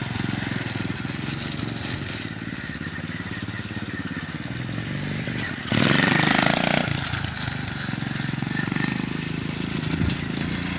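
Dirt bike engine running steadily, with a louder rush of noise about six seconds in that lasts about a second.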